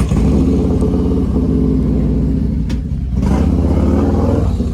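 Vehicle engine running loudly just after starting, with a rapid firing pulse; it eases off briefly about three seconds in, then picks up again.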